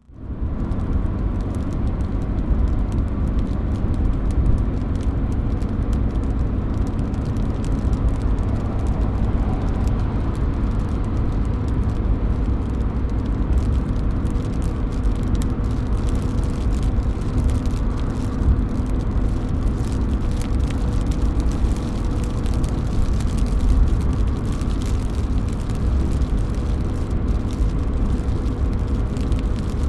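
Rain dripping and pattering off a roof edge: a dense scatter of small drop impacts over a steady low rumble.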